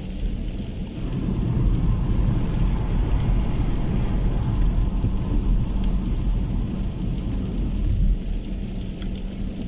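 Rainstorm: steady rain with wind, and a deep rumble that swells about a second in and eases off near the end.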